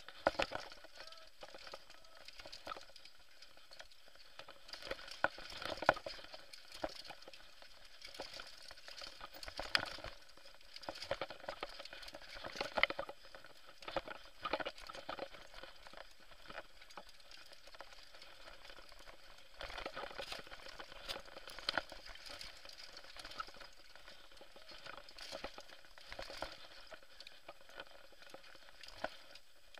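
Mountain bike descending a rough trail at speed: tyres crunching over loose ground while the bike rattles, with many irregular clicks and knocks.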